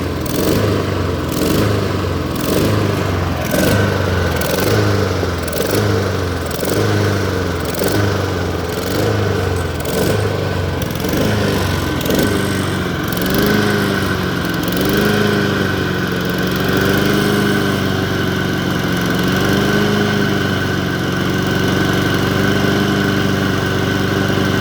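Small gasoline lawn mower engine running rough just after a springtime start, surging in a rhythmic boom, boom, boom about once a second, then settling into a steadier run with a slightly wavering pitch about halfway through. The owner puts the surging down to old gas left in it over winter, a sign of a dirty carburetor jet.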